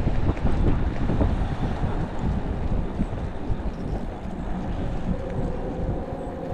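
Wind buffeting the microphone of a moving e-bike, a fluttering low rumble, with a faint steady tone joining in near the end.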